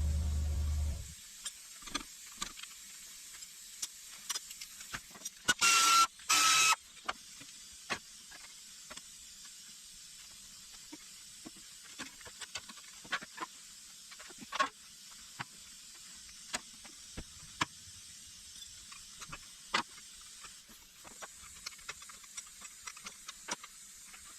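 Scattered clicks and metallic knocks of hand tools and parts being handled while a small car engine is stripped down, with two brief loud hissing bursts close together about six seconds in. A steady low hum stops about a second in.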